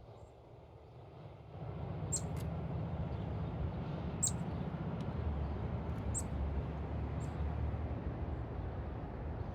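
About five short, high-pitched bird chips scattered through, over a low rumble that swells about a second and a half in and holds.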